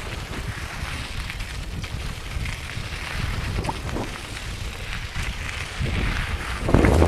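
Wind rumbling on the microphone over the crunch and rattle of a Specialized Camber 29er mountain bike rolling over dirt and gravel singletrack, with scattered clicks and a louder jolt near the end.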